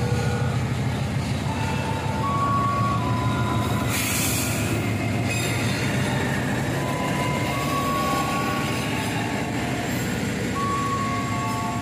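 KAI CC 206 diesel-electric locomotive passing close by with its engine rumbling, followed by the generator car and passenger coaches rolling past on the rails. Short high wheel squeals come and go throughout, with a brief hiss about four seconds in.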